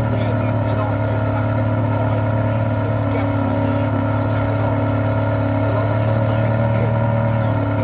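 A car engine idling steadily, its pitch holding level throughout.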